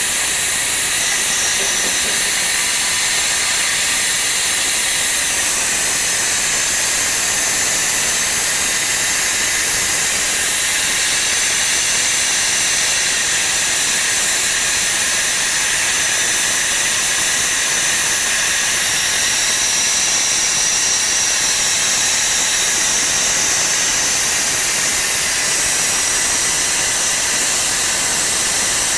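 Veneer lathe running, with a steady, loud hiss that stays even throughout and sits mostly high in pitch.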